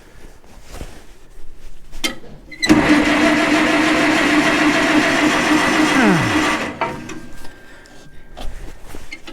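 Old farm tractor's electric starter cranking the cold engine with the choke pulled. It runs steadily for about four seconds from a few seconds in, then stops without the engine catching. A few light clicks come before it.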